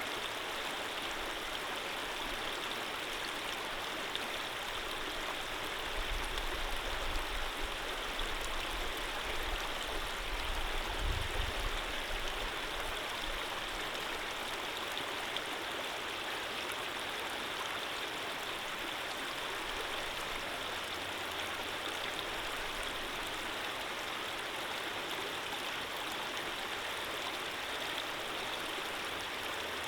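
Running water of a stream, a steady even rush. A low rumble rises under it from about six seconds in and fades by about thirteen seconds.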